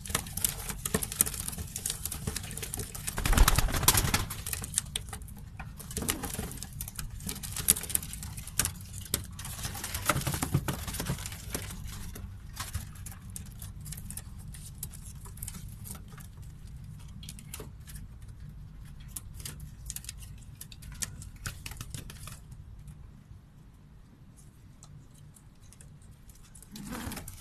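Birds moving about and calling, with many small scratching and clicking sounds and a louder burst about three seconds in; the sounds quieten after about 22 seconds.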